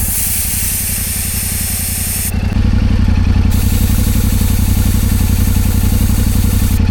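Air hissing out of a motorcycle tyre valve in two bursts, one of about two seconds and then, after a short break, one of about three seconds, as the tyre pressure is lowered for rough ground. Under it the motorcycle's engine idles steadily, growing louder about two and a half seconds in.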